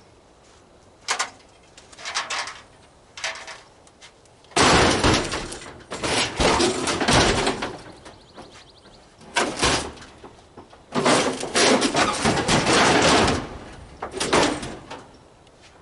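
Heavy steel hood being shoved over a trailer load of scrap metal: a few light knocks, then long loud bouts of metal scraping and clanking as it slides into place.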